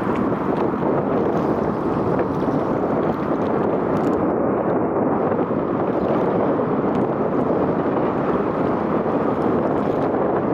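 Steady rushing of wind on the microphone, an even noise with no tones or rhythm in it.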